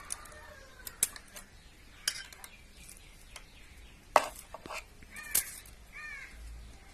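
Scattered metal clicks and clinks of a spanner working the valve-clearance adjuster locknut on a Bajaj Pulsar 135LS cylinder head as it is loosened, the loudest a sharp clink about four seconds in.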